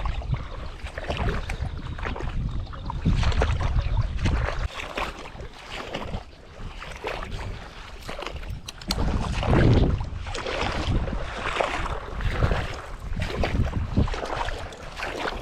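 Water splashing and sloshing around a small paddled boat, in irregular swishes, with wind buffeting the microphone in the first few seconds.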